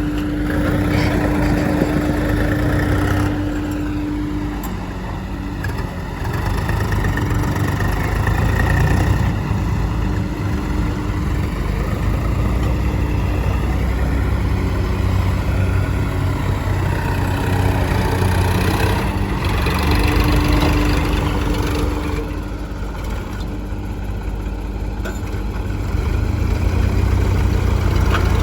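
Diesel engines of tractors and a JCB backhoe loader running at work, their sound swelling and easing, with a steady whine that comes and goes.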